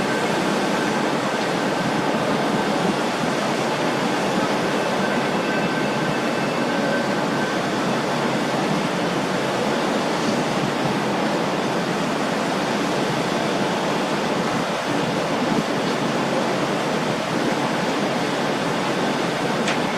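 Steady rush of wind and water from a Brødrene Aa 40 m carbon-fibre catamaran fast ferry underway, with a faint high tone that fades out about seven seconds in.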